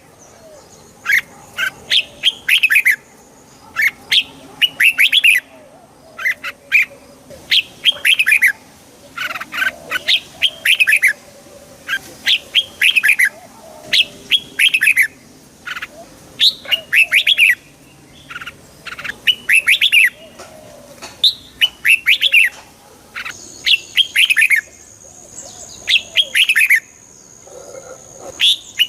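Red-whiskered bulbul singing: short, bright, chirpy phrases repeated one after another, every second or so.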